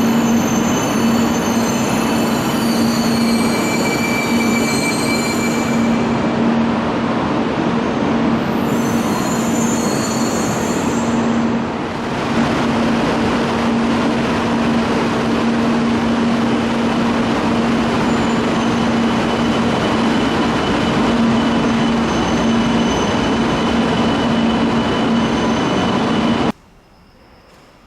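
Jōetsu Shinkansen bullet train at the station, loud and steady: a rushing noise with a constant hum and thin high squealing tones. It cuts off abruptly near the end.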